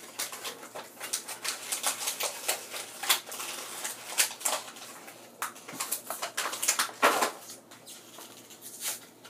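Plastic toy packaging crinkling and rustling as it is handled, with many irregular clicks and taps.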